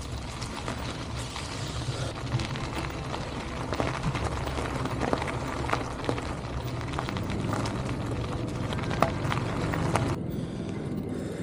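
Bicycle riding on a gravel trail: tyres crunching and the bike rattling in many small sharp clicks, over a steady low rumble. The rumble is typical of wind on a bike-mounted camera's microphone.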